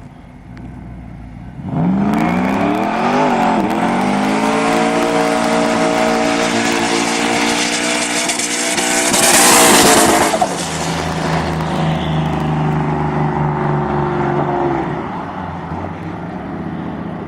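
Pickup truck engine revving hard: it comes in suddenly about two seconds in, climbs and wavers in pitch, then holds high revs. A loud noisy rush peaks about halfway through, then the engine drops to a lower steady note and fades near the end.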